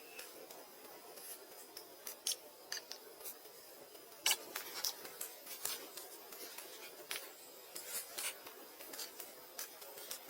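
Irregular sharp clicks and light scraping at an uneven pace over a low hiss, the loudest click about four seconds in.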